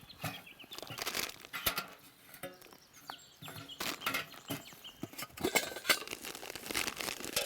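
Irregular crinkling and rustling with scattered light clicks, knocks and brief clinks as food and cooking gear are handled.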